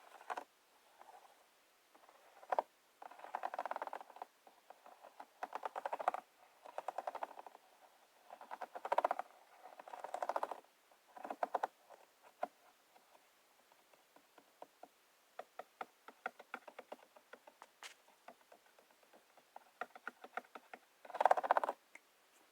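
ASMR trigger sounds close to the microphone: repeated short bursts of rapid crackling and clicking, as from an object being handled, scratched or fiddled with, with scattered single ticks between the bursts and the loudest burst near the end.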